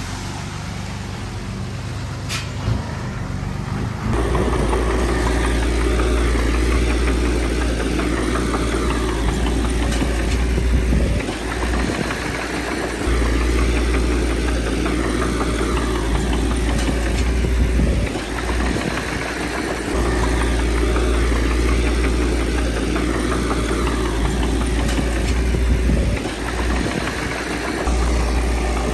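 Diesel engine of earthmoving machinery running steadily. It gets louder about four seconds in and eases off briefly three times, as the engine's load changes.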